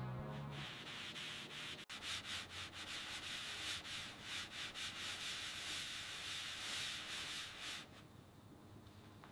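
Quick, irregular rubbing strokes against a surface, as in scrubbing or sanding, dying down to faint noise about eight seconds in.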